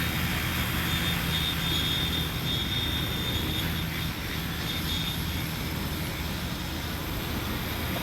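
Large agricultural spraying drone with a 15-litre tank in flight: the steady hum of its propellers, with a thin high whine from the motors.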